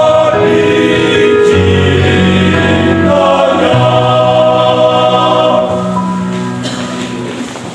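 Vocal group singing a Christian gospel song in long held chords with vibrato over low sustained notes, fading out near the end.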